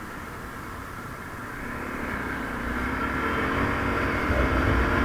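A motor vehicle's engine running with road noise, growing louder and rising in pitch over the last few seconds.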